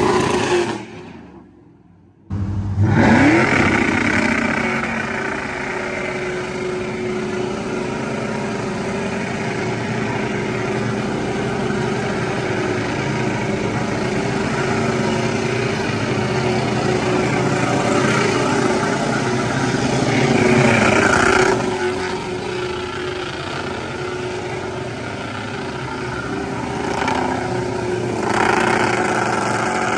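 Vehicle engine doing a burnout to wear the tires down: after a brief lull it revs up about two seconds in, then is held at high, steady revs with the hiss of tires spinning against the pavement.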